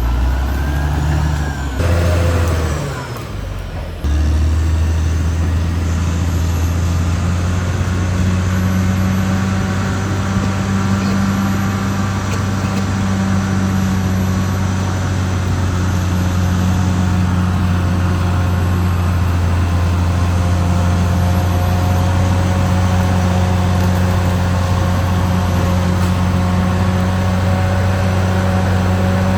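Caterpillar D6R XL bulldozer's diesel engine working. Its note shifts and dips over the first few seconds, then settles into a steady drone from about four seconds in.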